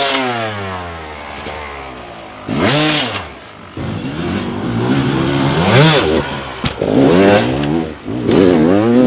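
Dirt bike engine revved hard in short bursts, about five times, its pitch climbing and dropping with each blip of the throttle.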